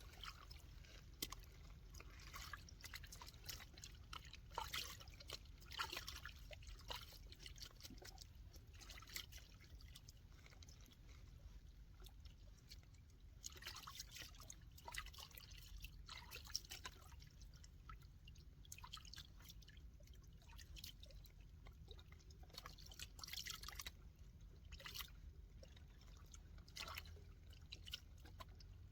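Faint water dripping and trickling, with small irregular splashes.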